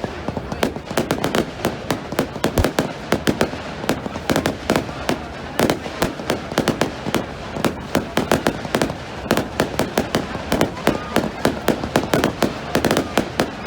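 Fireworks going off in a dense barrage: a rapid, irregular run of sharp bangs and crackles, several a second, with no let-up.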